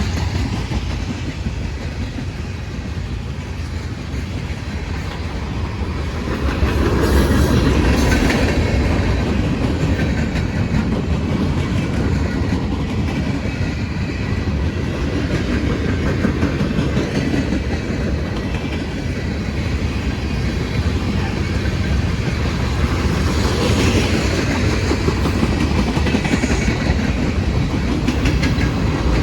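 Cars of a CSX freight train rolling past, their wheels clicking over the rail joints in a steady clickety-clack that grows louder about seven seconds in.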